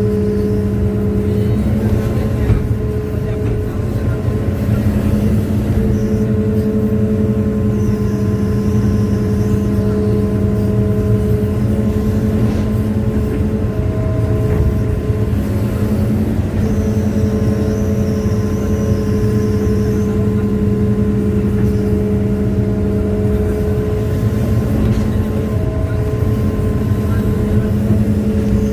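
Hitachi excavator's diesel engine running hard under load, a steady drone whose note dips and recovers several times as the machine struggles while bogged in soft ground. A faint high whine comes and goes over it.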